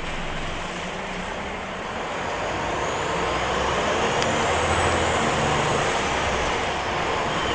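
Scania L94-UB city bus's diesel engine running, growing louder from about two seconds in.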